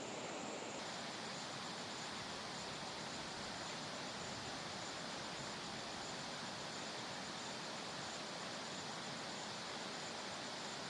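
Steady rush of a large waterfall, with insects chirping faintly in an even, repeating rhythm.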